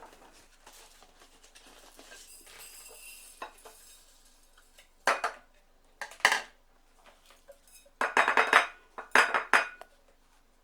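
Clinking and clattering of the gold-dust vacuum's filter and housing parts as the filter is taken out and put back: faint handling noise at first, then a few short bursts of clatter, the longest and loudest near the end.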